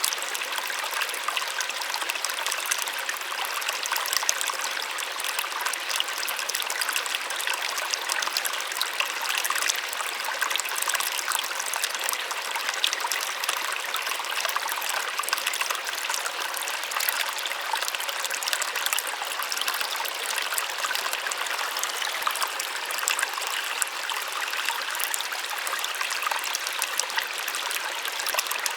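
Small waterfall splashing steadily into water, a soft continuous rush with many small splashes and trickles.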